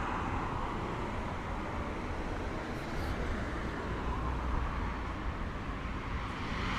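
Steady city street ambience of road traffic: a continuous hum of passing cars with a low rumble and no single event standing out.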